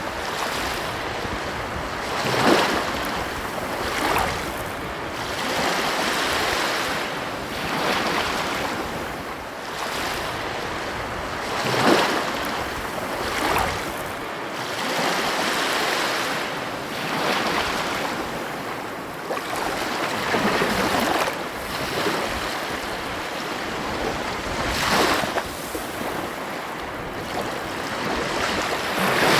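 Ocean surf on a beach: a steady rush of water with waves breaking louder every few seconds.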